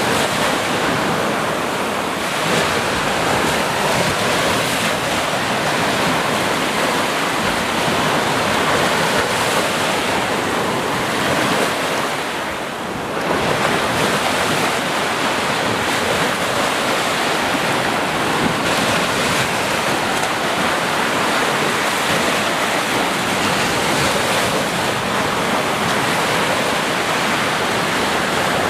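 Ocean surf: waves washing in continuously, with a short lull about twelve seconds in before the next wave builds.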